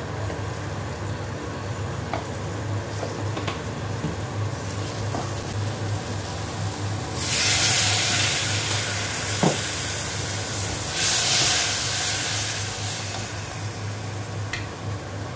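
Onions, green peppers and garlic sizzling in a hot saucepan, with a few light taps of a silicone spatula stirring them and a steady low hum. Twice, about seven and eleven seconds in, the sizzle surges into a loud hiss as soy sauce hits the hot pan and turns to steam.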